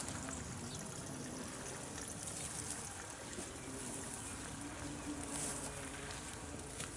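Light rain falling, a steady soft hiss with no single sound standing out.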